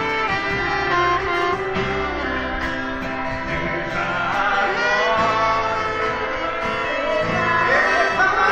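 A gospel group singing a praise song over instrumental backing.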